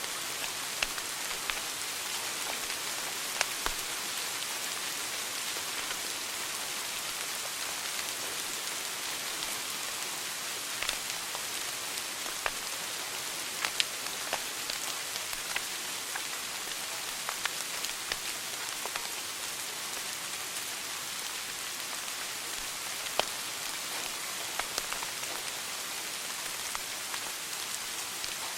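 Wood fire burning in a fireplace: a steady hiss with irregular sharp crackles and pops, a few of them louder than the rest.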